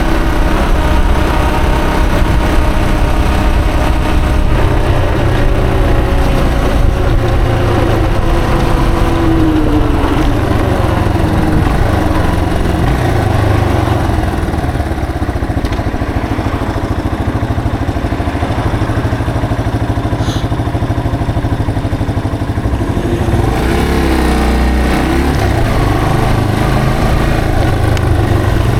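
Yamaha TW225's single-cylinder four-stroke engine running under a riding motorcycle. Its pitch falls as the bike slows about a third of the way in, then holds lower and steadier for several seconds. Near the end it climbs again as the bike pulls away.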